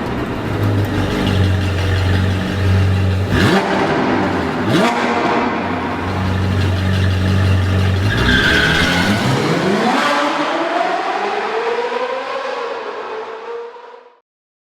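Car engine revving and accelerating hard, with two sharp cracks a little over a second apart about 3.5 seconds in. The engine pitch then climbs steadily, and the sound cuts off abruptly near the end.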